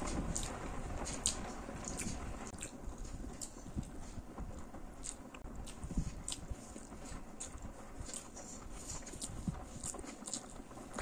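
Close-up chewing and biting of a spicy masala-coated boiled egg with rice, eaten by hand: irregular wet mouth clicks and smacks, a few every second.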